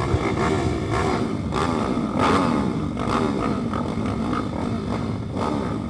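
Several pit bike engines revving up and down together, their pitches rising and falling and crossing one another.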